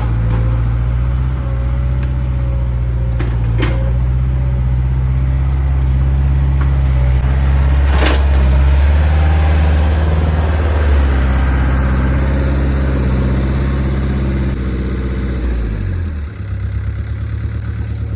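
Skid steer engine running steadily under load while pushing a tree, with a couple of sharp cracks along the way. About fifteen seconds in the engine note drops and settles lower.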